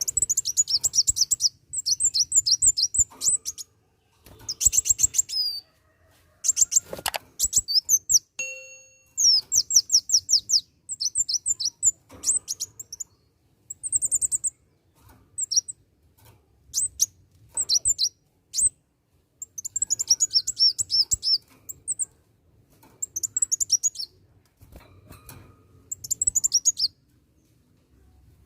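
Kolibri wulung sunbird singing: rapid, high-pitched twittering phrases of a second or two each, repeated again and again with short pauses between them.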